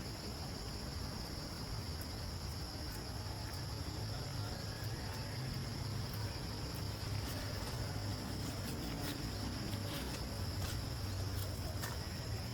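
Steady, unbroken high-pitched insect chorus, with a low rumble underneath and scattered light clicks in the second half.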